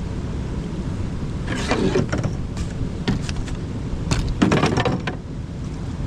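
Knocks and scrapes of a canoe and gear being handled on rock, over a steady rushing noise. The knocks come in a run from about one and a half to five seconds in, loudest near the end of that run.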